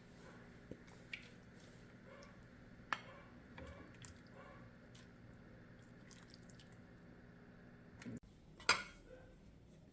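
Light kitchenware handling: a few small clinks and taps over a faint steady hum, with one louder brief noise near the end.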